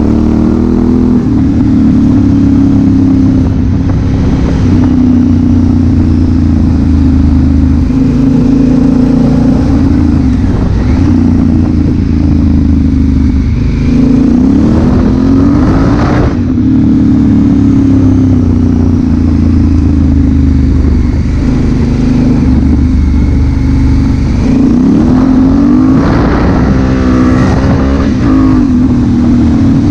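Honda Africa Twin CRF1000L's parallel-twin engine running as the bike is ridden, its pitch rising and falling with throttle and gear changes, with several quick climbs in revs near the end.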